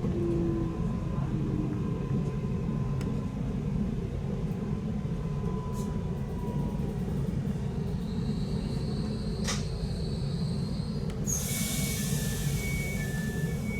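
Steady low rumble inside a passenger train carriage. Near the end a loud hiss starts suddenly, together with high beeps that alternate between two pitches about every half second.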